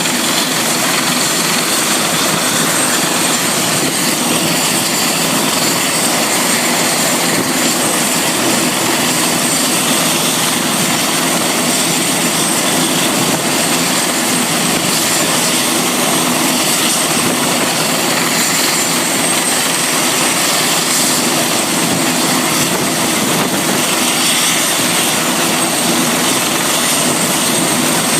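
Helicopter running steadily: a loud, even rushing noise with a steady high whine on top, unchanging throughout.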